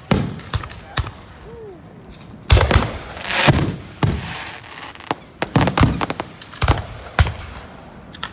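Aerial fireworks shells bursting overhead: a quick, irregular run of over a dozen loud bangs, some with a short echoing tail.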